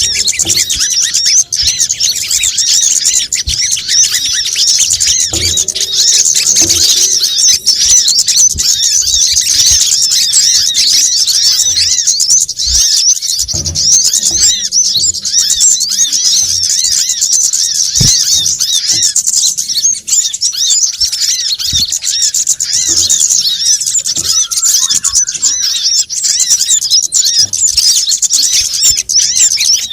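Lure recording of sunbirds: a dense, continuous chatter of high, rapid, overlapping chirps and twitters, several birds calling at once in an agitated way.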